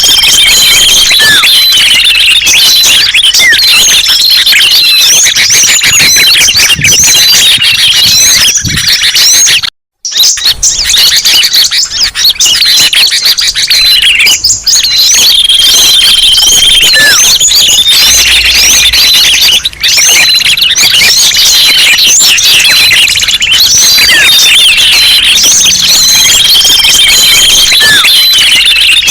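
Bird-lure recording: a dense, loud chorus of many small songbirds chirping and twittering at once, with a brief break in the sound about ten seconds in.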